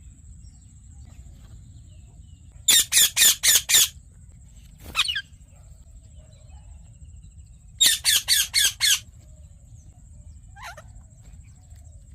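Yellow Indian ringneck parakeet squawking: two runs of five quick, harsh calls about five seconds apart, with a single falling call between them and a faint short call near the end.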